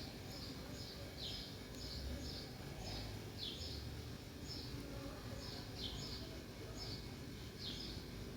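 Sparrows chirping: short, high, falling chirps repeated about one and a half times a second, over a low steady background rumble.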